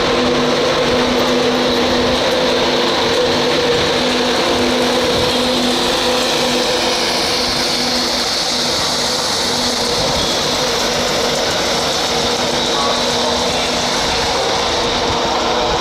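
Class 91 electric locomotive pulling out, a loud steady machine hum and whine over a constant rush of noise. The low steady tones in the hum fade out about halfway through.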